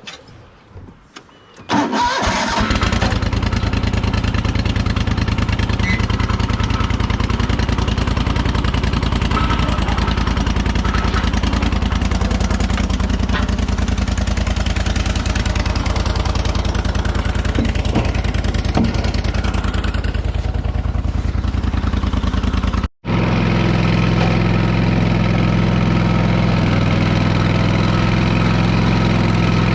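Wright commercial lawn mower's engine starting about two seconds in, catching at once, then running steadily. A brief dropout about 23 seconds in, after which the engine runs on as a steady hum.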